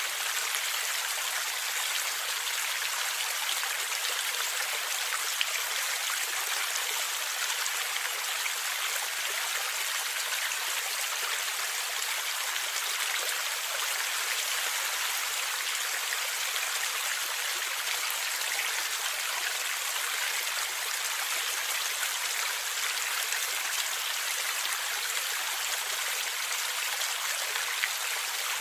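Stream water flowing and gurgling over rocks, a steady even rush with faint splashes and drips.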